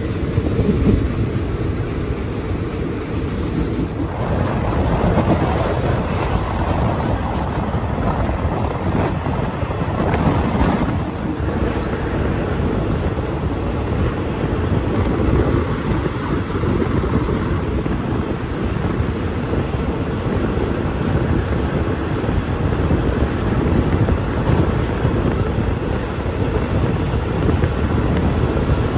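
Wind rushing over the microphone and the steady rumble of a moving passenger train, recorded from an open carriage window.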